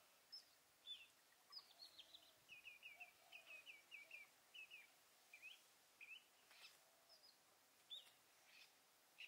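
Faint bird chirps and twitters, with a quick run of short repeated notes a few seconds in and scattered single calls after.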